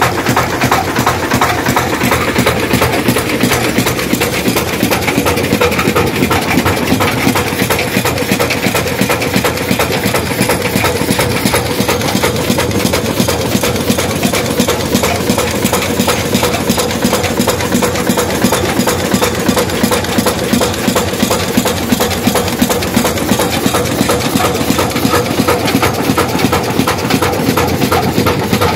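Hundred-year-old stationary engine driving a village flour mill (atta chakki), running steadily with a fast, even beat.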